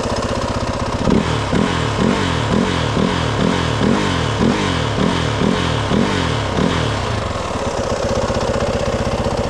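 Side-by-side UTV engine running to charge its battery, revved in quick repeated blips about twice a second for several seconds, then settling back to a steady idle near the end.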